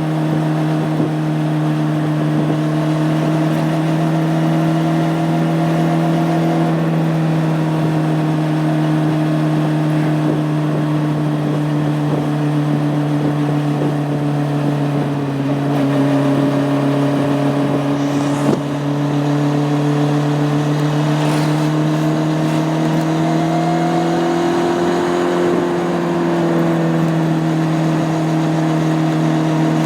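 Honda CB600F Hornet's inline-four engine running at steady road revs, the pitch easing up and down only slightly, rising a little near the end. A brief knock about two-thirds of the way through.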